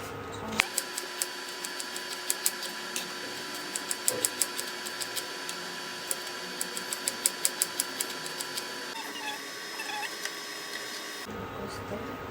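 Knife chopping vegetables on a cutting board: quick runs of sharp taps with short pauses between them, over a faint steady hum.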